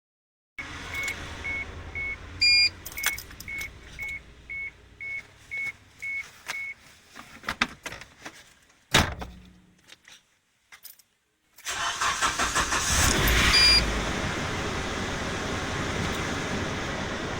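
Car engine being started: a dashboard chime dings about twice a second for the first several seconds, then come a few clicks and knocks. About twelve seconds in the engine cranks and catches, revs briefly, and settles into a steady idle.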